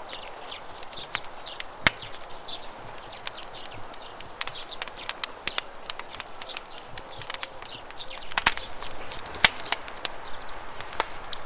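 Wood campfire crackling with irregular sharp pops, a few louder ones standing out, over the steady rush of flowing river water.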